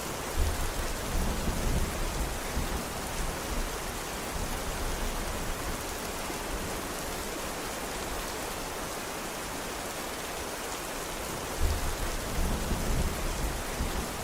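Steady rain hissing throughout, with two low rumbles of thunder, one starting about half a second in and another near the end, each lasting a couple of seconds.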